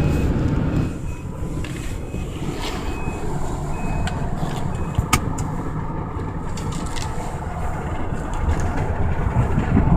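Car in motion, heard from inside the cabin: a steady low rumble of road and engine noise. Faint short high beeps come at intervals early on, and a sharp click comes about halfway through.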